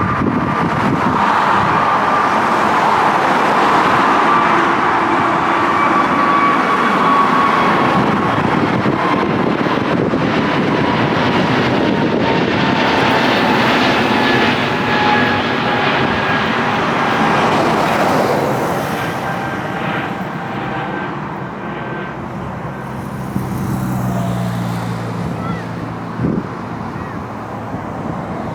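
Heavy jet airliner passing low overhead on takeoff climb-out: loud engine noise with a whine that slides slowly lower in pitch, easing off in the last third as the jet moves away.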